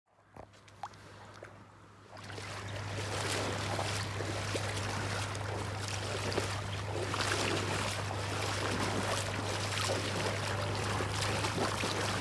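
Water washing along a shoreline, a steady hiss that rises about two seconds in, over a constant low hum; a few faint clicks before it.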